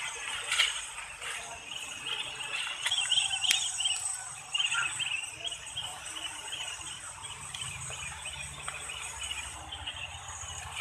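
Insects, crickets or similar, chirping steadily in a high-pitched chorus, with irregular lower chirps and a few sharp clicks over it.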